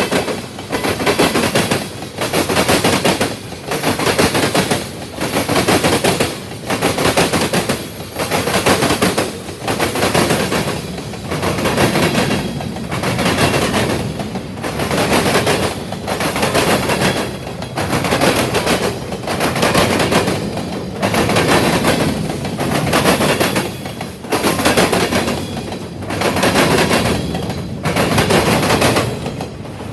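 Freight train cars rolling past, their wheels clattering over the track in a steady rhythm of loud bursts about once a second.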